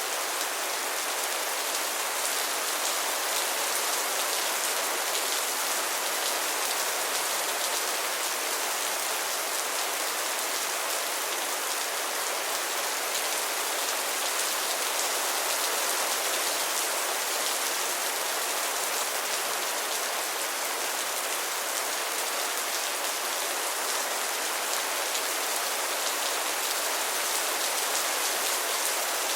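Heavy rain falling steadily, a dense even hiss of drops on surfaces with no let-up or thunder.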